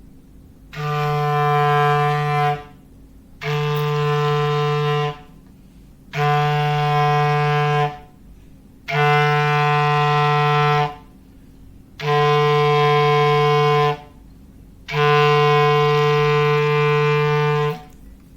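A clarinet sounding a foghorn-like low note in six steady held blasts, each about two seconds long with short gaps between.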